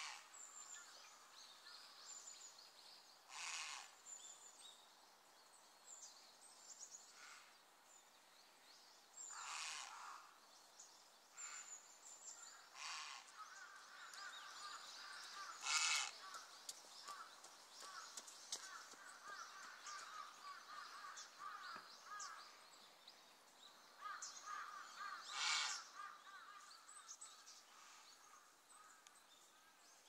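Outdoor bird sounds: about six short, loud calls spaced a few seconds apart, with faint high chirps and twittering of small birds between them.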